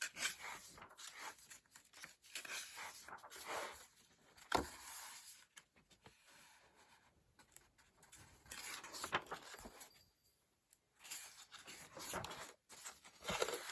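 Coloring book pages being turned one after another: paper swishes and rustles in short bouts with pauses between, and a sharp tap about four and a half seconds in.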